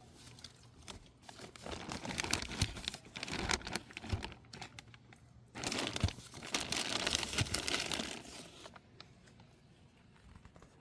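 Crinkling and rustling from close handling, in two bouts of about three seconds each, full of small crackles.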